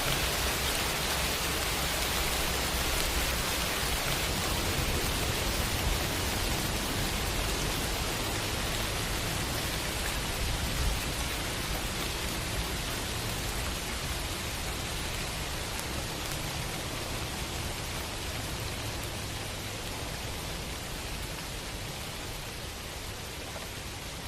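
Steady rain falling, an even hiss with a low rumble underneath, slowly growing fainter.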